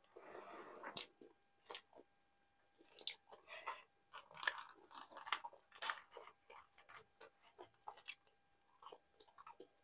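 Close-miked, quiet chewing with wet mouth clicks and smacks while eating nihari and naan, the clicks densest in the middle, where naan is being torn by hand. It opens with a long breath out through pursed lips.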